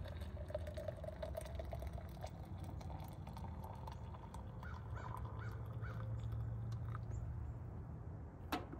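A bird calling: a drawn-out wavering call at the start, then a run of about four short calls about five seconds in, over a steady low hum. A sharp knock comes near the end.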